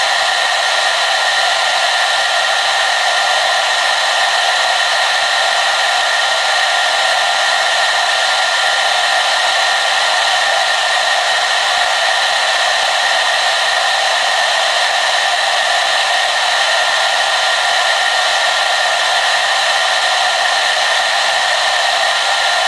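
Hair dryer running steadily, a constant rush of air with a steady high motor whine over it.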